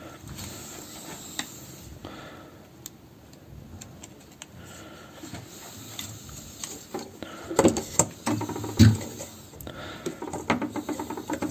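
Scattered light clicks and taps of small parts being handled while a CPU cooler fan's retaining ring is refitted on its shaft, with two louder knocks about two-thirds of the way through.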